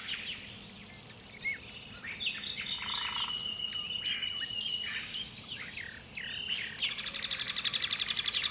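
Forest ambience of several birds chirping and calling. One long high trill is held for a few seconds, and about seven seconds in a fast, even, pulsing high trill starts.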